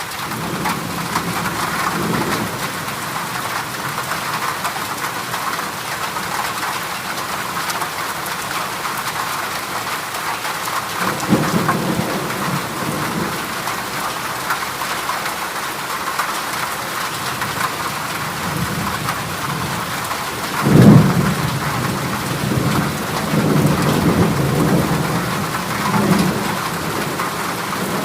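Heavy rain drumming steadily on a corrugated galvanized-metal roof. Rolls of thunder rumble under it: one about a third of the way in, a louder clap and rumble about three-quarters of the way in, and more rumbling just after.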